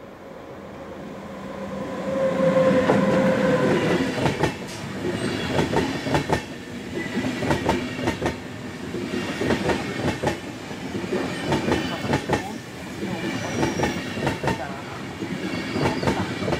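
Train running past on the track, growing louder over the first two to three seconds, then a steady clatter of its wheels knocking over the track.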